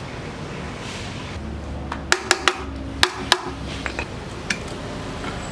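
A handful of sharp metallic clinks and knocks, about five in quick succession and then a few fainter ones, over a steady background noise, like metal parts or tools being handled.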